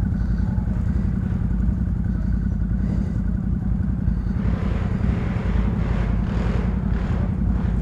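ATV engine running steadily under way. A rushing hiss joins in about four seconds in and fades near the end.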